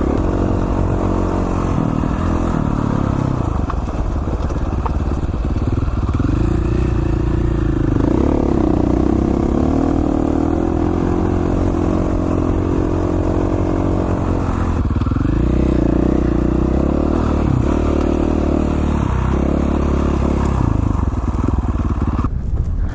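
2017 KTM 450 XC-F dirt bike's single-cylinder four-stroke engine running under riding load, its revs rising and falling with the throttle, with clear rises about six seconds in and again around fifteen seconds. The engine sound drops away near the end.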